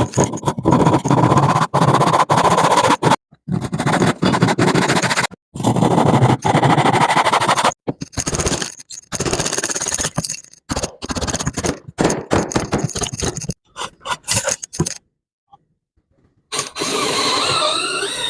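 Woodworking tool noise, mostly scraping and rasping, broken into short pieces by abrupt cuts every second or two.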